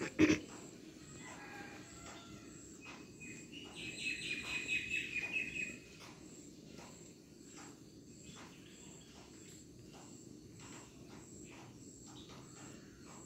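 A bird calls for about two seconds a few seconds in, a rapid pulsed high chirping. A sharp knock comes at the very start, and faint ticks follow as a cat crunches crumbs from a tiled floor.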